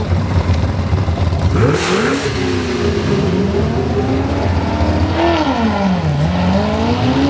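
Stock Corvette ZR1's supercharged V8 idling, then revved up about a second and a half in and held at raised revs. About six seconds in the revs sag as the car pulls away from the start line, then climb steadily as it accelerates.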